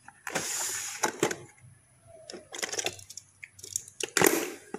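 Small diecast metal toy cars clicking and clattering against each other and the plastic storage box as a hand rummages through them. A brief sliding scrape comes early, then scattered clicks, with the loudest clatter near the end.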